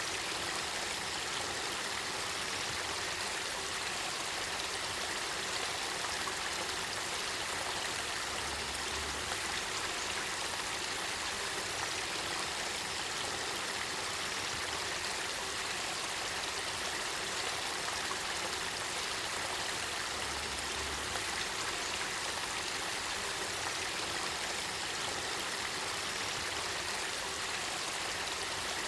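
Spring water welling up and flowing in a clear river, a steady even rush of water.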